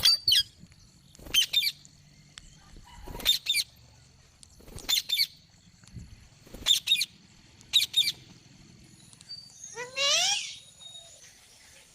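Rose-ringed parakeet (ringneck parrot) calling: short, high calls, mostly in pairs repeated about every one and a half seconds, then one longer call that rises in pitch near the end.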